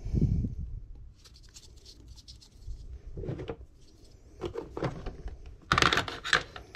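Handling noises at a workbench: a low thump at the start, then scattered clicks, knocks and rubbing, with a louder burst of clatter about six seconds in.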